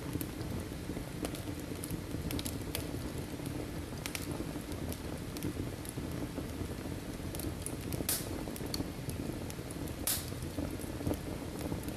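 Firewood burning in a fireplace: a steady low rush of flame with scattered sharp crackles and pops, two louder pops about eight and ten seconds in.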